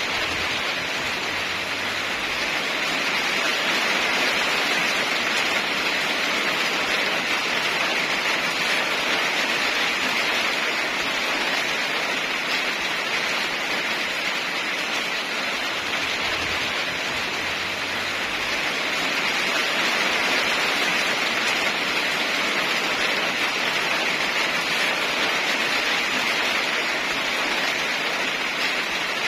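Heavy rain falling steadily, a dense even hiss that swells and eases slightly in level.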